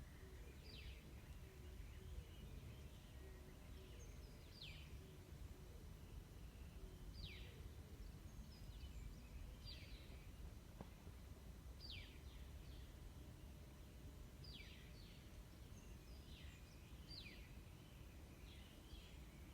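A bird calling faintly and repeatedly, each call a short high note falling in pitch, every two to three seconds, over a low steady rumble of outdoor background noise.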